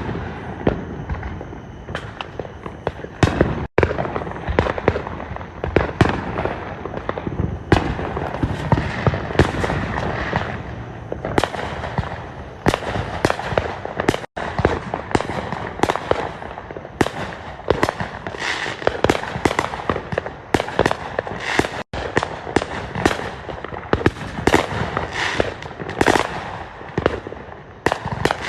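Fireworks going off in a rapid, continuous barrage: many sharp bangs and crackles overlapping with hardly a pause, broken by three split-second gaps where the sound cuts out completely.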